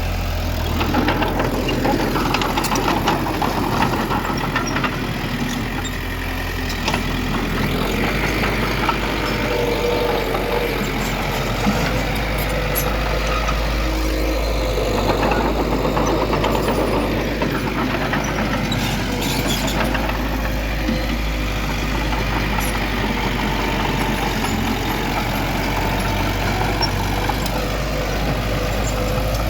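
Heavy diesel earthmoving machinery, a bulldozer with dump trucks, running steadily as it works soil. A low engine drone carries a few faint clanks.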